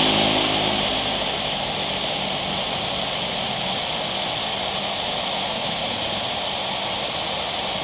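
Engine noise of a Trigana airliner: a steady rushing noise with a high band. A stack of engine tones fades away about a second in, and the noise then holds steady at a slightly lower level.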